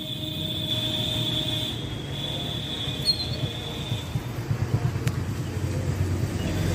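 A car engine running with a low, uneven rumble. A steady high-pitched tone sounds over it and stops about four seconds in.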